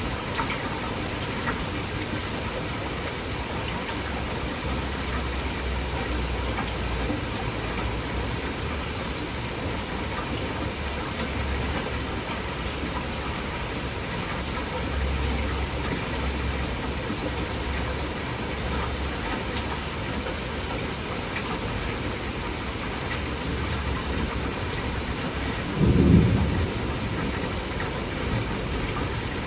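Heavy rain falling steadily, with low thunder rumbling now and then and one louder low rumble of thunder near the end.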